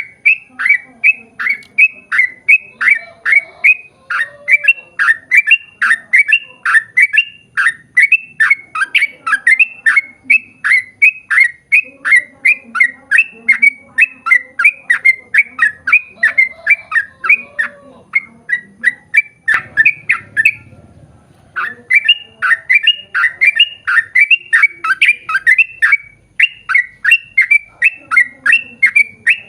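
Yellow-vented bulbul (trucukan) calling in a long, fast run of short chattering notes, about three to four a second, broken by one pause of about a second roughly two-thirds of the way through.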